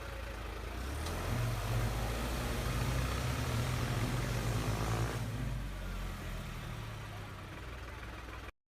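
An engine running with a steady low hum, building up over the first couple of seconds and easing off after about five seconds.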